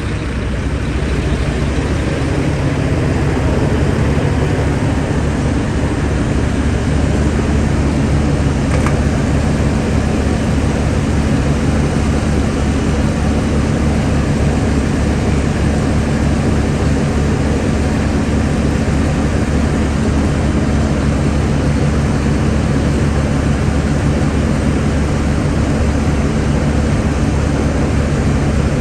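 Diesel engine of a semi truck idling steadily.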